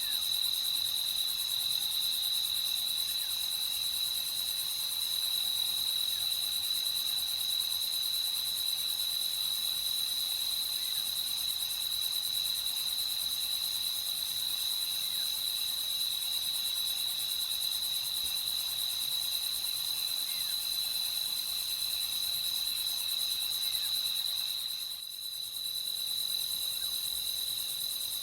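Crickets chirping in a dense, continuous chorus with a steady high-pitched pulsing, briefly dropping away for a moment near the end.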